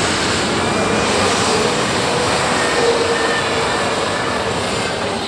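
Heavy modified pulling tractor's engines running flat out under load during a pull: a loud, steady roar that holds without rising or falling.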